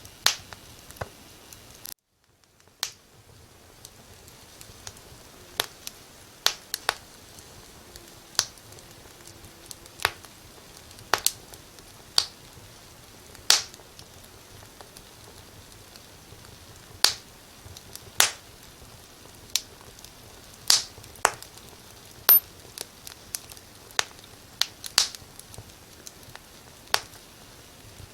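Wood fire crackling: sharp, irregular pops and snaps, one or two a second, over a soft steady hiss. The sound cuts out briefly about two seconds in and fades back up.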